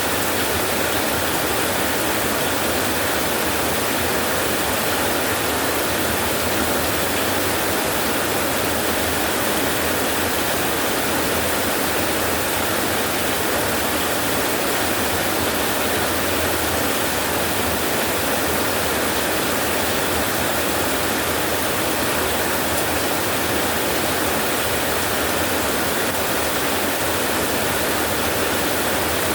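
Steady rainfall: an even, unbroken hiss with no thunder claps or other distinct events.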